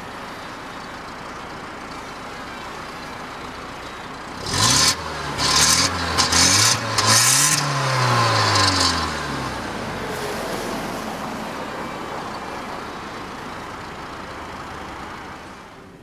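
1999 Volkswagen Passat B5's 1.6-litre four-cylinder petrol engine idling. From about four and a half seconds in it is revved several times in quick succession, the pitch rising and falling with each blip, then it settles back to a steady idle.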